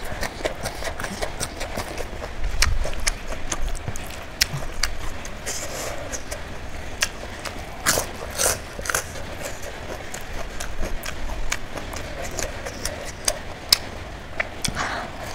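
Close-miked chewing and mouth sounds from someone eating: an irregular run of sharp clicks and smacks, several a second, a few louder near the middle.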